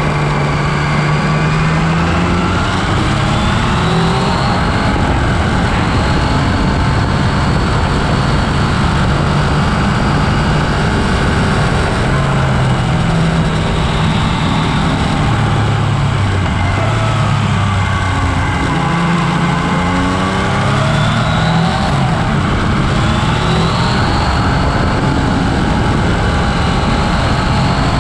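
Yamaha Tracer 900's inline three-cylinder engine under way, its pitch climbing and falling again and again as the rider opens and closes the throttle, over a steady rush of wind and road noise.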